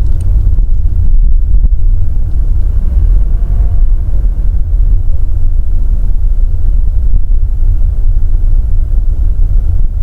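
Mazda CX-30 driving slowly with a steady low rumble from the road and drivetrain, and a faint short tone about three and a half seconds in.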